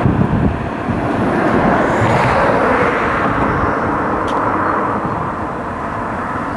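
Train running on the tracks, a steady rushing rumble that swells about two seconds in and slowly eases off, with wind buffeting the microphone.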